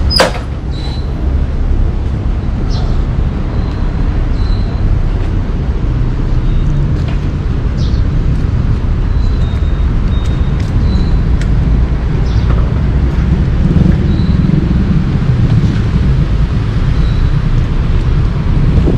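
Steady low rumble of road traffic with buses running, opening with one sharp click.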